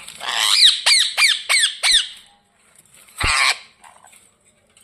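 Pet ringneck parrot squawking in a grumpy, agitated mood: a quick run of about five sharp, falling calls, then one harsh screech about three seconds in.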